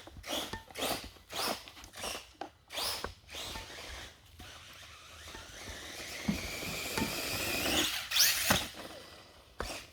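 Electric motor of a 1/10 Redcat Volcano RC truck on a Spektrum 4S system whining in short throttle blips about twice a second. About halfway through it gives a longer whine that rises in pitch as the truck accelerates, then one more short burst near the end.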